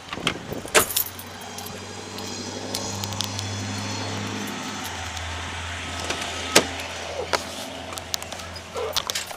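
Car engine running steadily, its low hum dropping slightly in pitch about halfway through. Sharp clicks come near the start, and a knock about two-thirds of the way in, from handling the car's open door.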